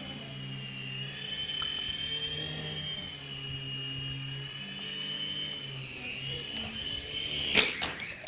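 Small electric motor and rotor of a toy remote-control helicopter running with a steady high-pitched whine that wavers slightly in pitch over a low hum. A loud sudden clatter comes near the end.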